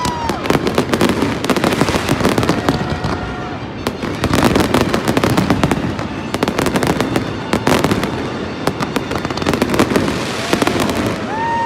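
Fireworks display: dense crackling and popping from bursting shells. A few short, high, steady whistles come through near the start, about three seconds in, and again near the end.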